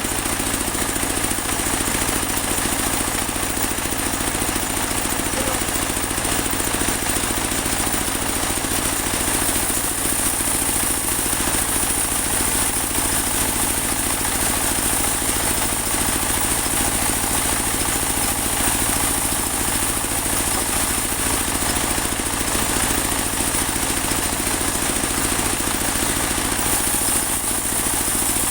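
Portable band sawmill running steadily: an engine drone with a constant high hiss from the band-saw blade.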